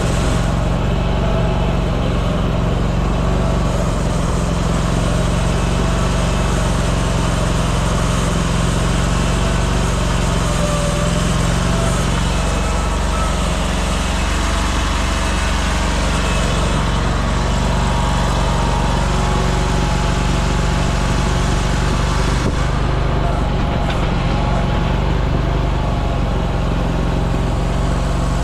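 Engine of a piece of construction equipment running steadily at a constant speed, a loud even drone that does not rise or fall.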